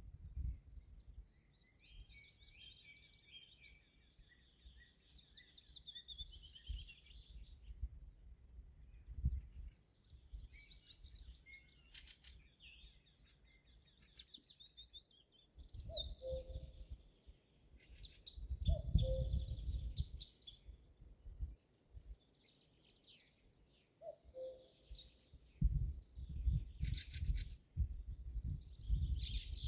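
Songbirds singing: two long, varied, trilled phrases in the first half, then shorter sharp calls and a short low note repeated three times. Low rumbling noise comes in bouts through the second half.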